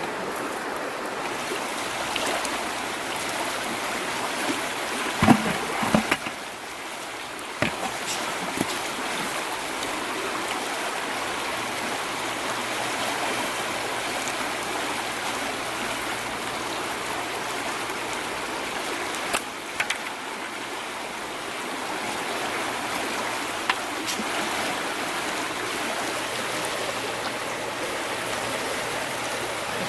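Running river water, a steady rushing flow, with a few brief sharp noises on top, the loudest a cluster about five to six seconds in and single ones near eight, twenty and twenty-four seconds.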